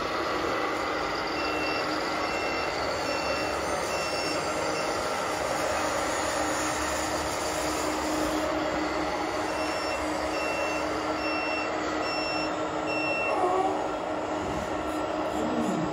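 Reversing beeper of a 1:14-scale RC model truck or wheel loader, beeping about twice a second in two runs, one early on and one past the middle, over a steady running hum.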